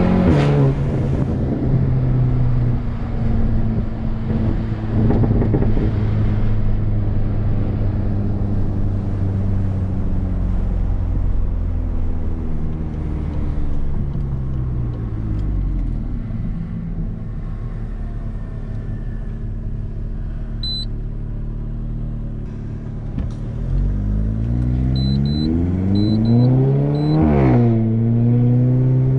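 Tuned VW Golf GTI TCR's turbocharged 2.0-litre four-cylinder, with a Milltek 3-inch downpipe and no particulate filter, heard from inside the cabin. The pitch drops at a gear change right at the start, the engine eases off to a low steady rumble in the middle, then it revs up hard near the end before the pitch drops sharply at the next gear change.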